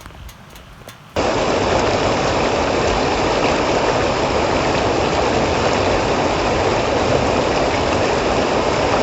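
Water rushing steadily in a creek, a loud even noise that starts abruptly about a second in.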